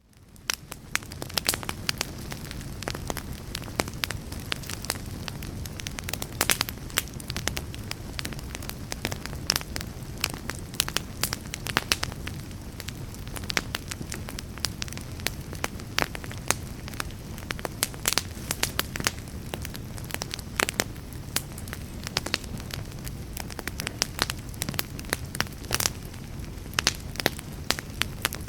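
Wood fire crackling, with frequent sharp pops and snaps over a steady low rumble. It fades in over about the first second.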